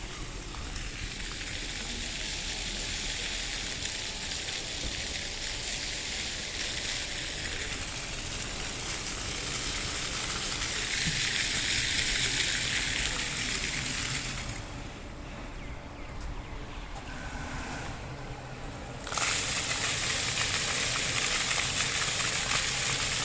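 Steady rushing noise like running water, stopping abruptly about two-thirds of the way through and returning louder a few seconds later.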